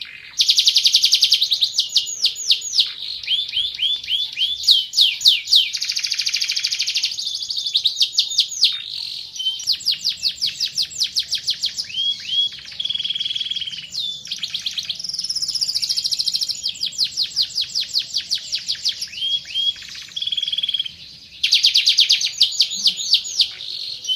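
A Van Hesterling canary singing its full song: long, unbroken runs of rapid trills and sweeping whistled notes, with a few short breaks in between.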